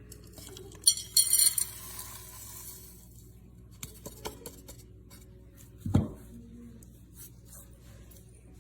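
Glass and kitchenware being handled: a sharp clink and a brief bright clatter about a second in, a few light ticks around four seconds, and a dull knock about six seconds in.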